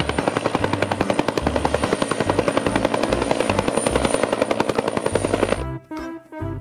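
Helicopter in flight: the main rotor beating rapidly and steadily, with a thin high turbine whine over it. It cuts off suddenly about five and a half seconds in.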